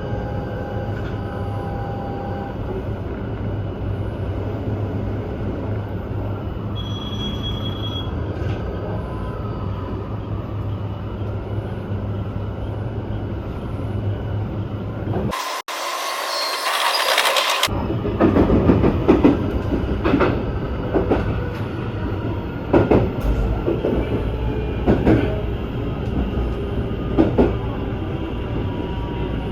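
Train running along the track: a steady low rumble, then a brief hissing rush about halfway through, followed by repeated clatter of wheels over rail joints.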